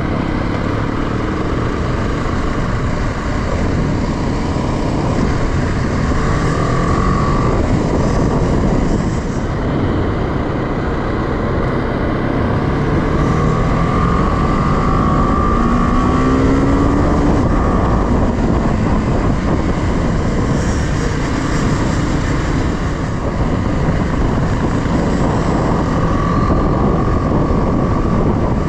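A motorcycle on the move: the engine running under heavy rushing noise, steady throughout, with a brief rising tone about halfway through.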